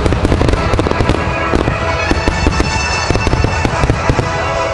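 Aerial firework shells bursting in a dense, rapid barrage of bangs and crackles during a show finale, with music playing under them.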